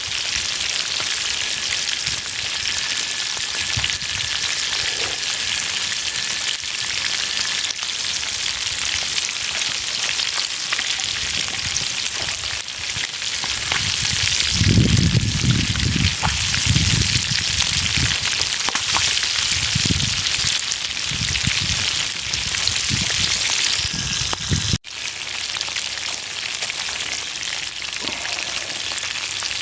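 Steady hiss of rain falling. A run of low rumbles, the loudest part, comes about halfway through, and the sound cuts out for an instant near the end.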